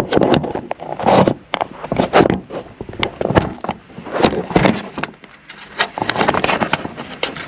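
Small plastic clip being worked by hand into a plastic part: a string of irregular scrapes and clicks as it is pushed and twisted without seating.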